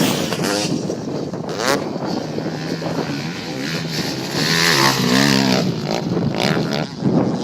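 Motocross bike engine revving up and down as it is ridden, its pitch climbing and dropping repeatedly, with a quick run of rises and falls about five seconds in.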